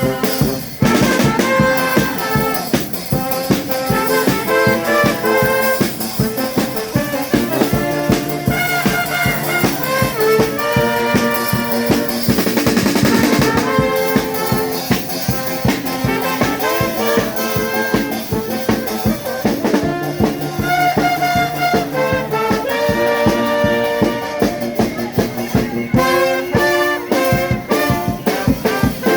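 Charanga brass band of trumpets and trombones playing a tune in held, stacked notes over a steady drum-kit beat.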